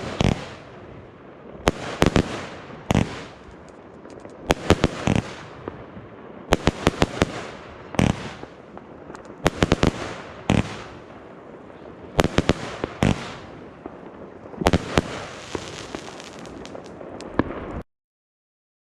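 Firework battery (cake) firing: sharp bangs in clusters every second or two, with crackling and hiss between them. The sound cuts off suddenly near the end.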